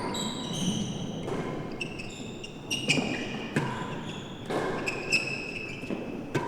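Real tennis rally: the ball knocks off rackets, walls and floor of the court about once a second. Each hit is sharp and leaves a short ringing tone behind it.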